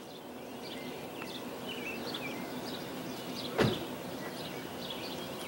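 Outdoor ambience with birds chirping, short calls coming every second or so, and a single sharp thump about three and a half seconds in.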